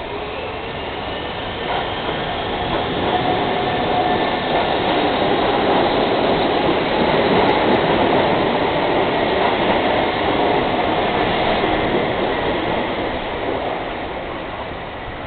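Shibayama Railway 3500-series electric commuter train pulling away from the platform and passing close by. The motor whine rises in pitch as it accelerates, and wheel and rail noise swells to its loudest as the cars go past, then fades as the last car leaves.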